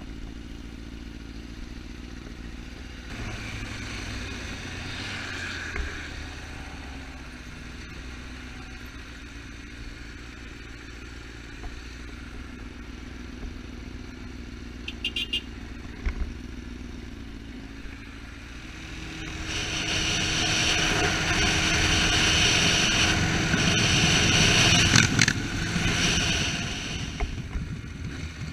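Yamaha R6 sportbike's inline-four engine running steadily at low revs. About two-thirds of the way in it grows much louder with a rushing noise as the bike rides on, easing off again near the end.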